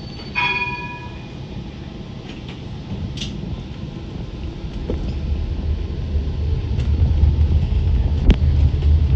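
Tram running along the rails. A short bell chime rings once about half a second in, and a low rumble builds and grows louder through the second half, with a few clicks from the track.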